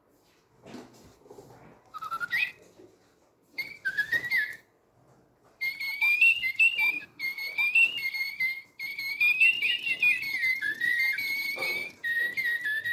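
Little Live Pets electronic toy bird making a few short rising chirps, then, from about five seconds in, singing a continuous warbling whistled tune.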